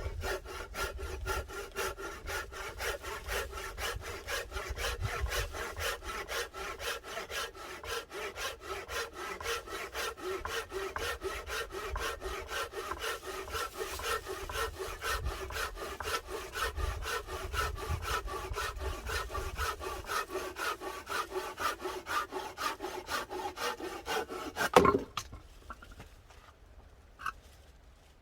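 Hand saw cutting through firewood in quick, even back-and-forth strokes, the blade ringing with a steady tone. The sawing stops about 25 seconds in with a single loud knock.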